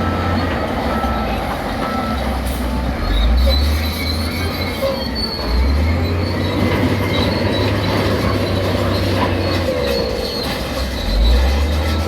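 Crawler bulldozer working: its diesel engine runs under load, swelling about three seconds in, again near the middle and once more near the end, while its steel tracks squeal.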